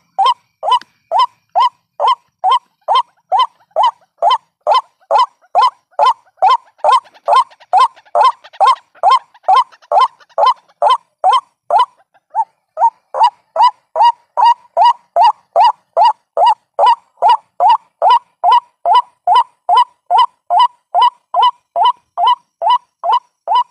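White-breasted waterhen call used as a trapping lure: a monotonous, loud, nasal note repeated about twice a second, with a brief break about halfway through.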